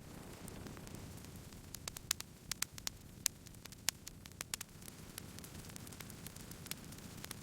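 Campfire crackling: irregular sharp pops and snaps over a steady low noise of the burning fire. The pops come thickest in the middle of the stretch and thin out toward the end.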